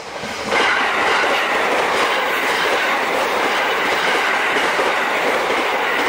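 JR West 681 series electric limited express train passing close by at speed: a steady loud rush of wheels rolling on the rails, rising sharply about half a second in as the cars reach the microphone.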